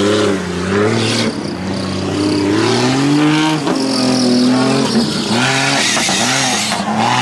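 Engine of a Jeep-bodied off-road race car revving hard under load as it drives up a dirt slope, its pitch rising and falling over and over.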